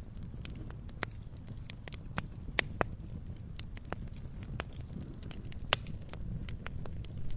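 Wood campfire crackling, with irregular sharp pops and a few louder snaps over a steady low rumble.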